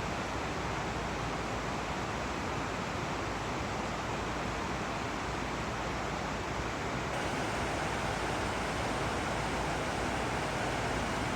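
Flowing water rushing steadily, a continuous even hiss with no breaks, growing slightly louder about seven seconds in.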